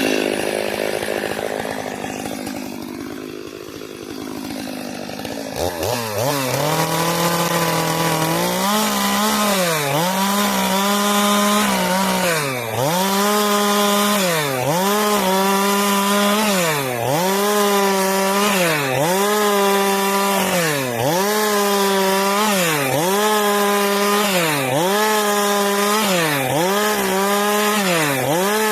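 Stihl MS 462 two-stroke chainsaw cutting eucalyptus wood. Its engine speed falls away over the first few seconds, then from about six seconds in it runs at high revs, its pitch dipping and recovering about every one and a half seconds as the chain is worked through the cut.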